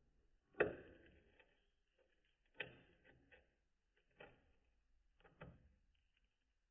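A cockatiel's beak biting and cracking wood: sharp cracks every second or two, with smaller nibbling clicks between.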